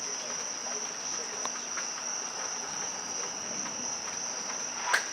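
Steady, high-pitched chorus of night insects such as crickets, with a single sharp click near the end.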